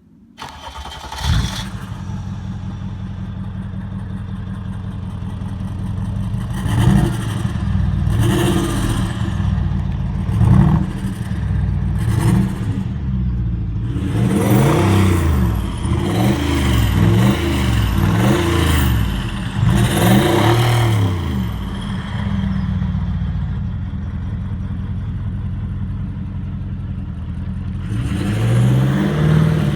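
Mercedes-Benz G400 engine through a custom aftermarket exhaust: it starts about a second in and settles to a steady idle, then is revved in repeated short blips, several in quick succession in the middle, before dropping back to idle and revving again near the end.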